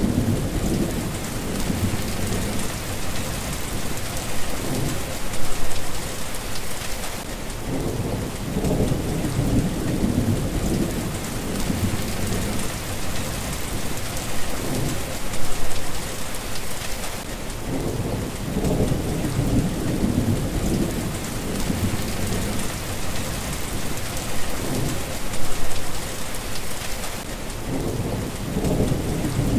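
Steady rain falling, with low rolls of thunder swelling about every ten seconds.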